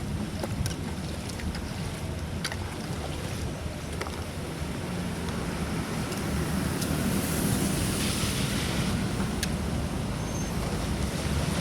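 Steady rushing of water draining through a cleared culvert, with a heavy low rumble and scattered small clicks; it grows slightly louder after about six seconds.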